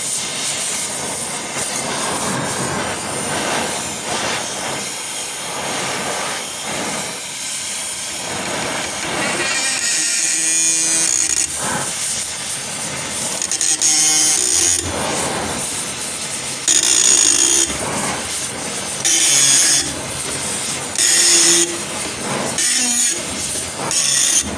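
Gas torch hissing steadily while heating a tractor drag link to free a stuck joint. Through the second half there are several short, louder bursts of higher hiss, each about a second long.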